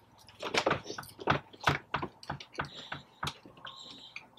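Close-miked crunching of crispy fried food being chewed: a quick, irregular run of sharp crunches lasting about three seconds, then quieter.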